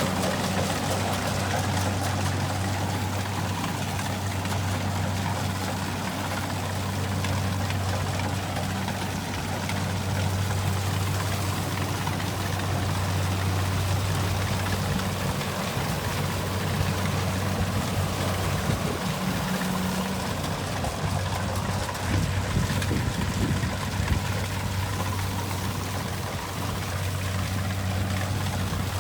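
Kubota rice combine harvester running steadily: a low engine drone under a constant rushing mechanical noise. The drone becomes less even after the middle.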